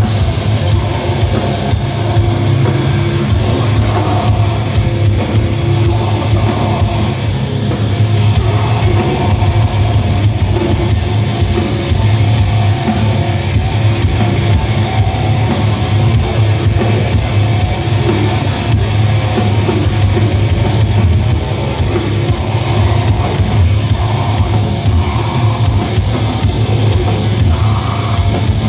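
Live heavy metal band playing loud, with distorted electric guitars, bass and a rapid drum kit beat, heard through a crowd recording.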